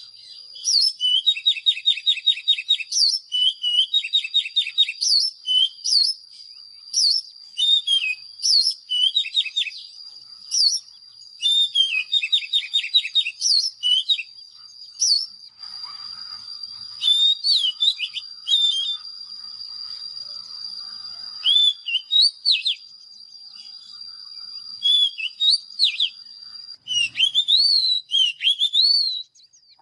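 Oriental magpie-robin singing: loud whistled phrases and rapid rattling trills, delivered in bursts with short pauses. A steady high-pitched tone runs under the song and stops just before the end.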